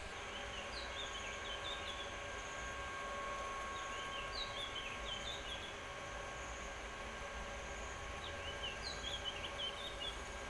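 A songbird sings a short phrase of quick, high chirping notes three times, about every four seconds, over a steady background of insect calls.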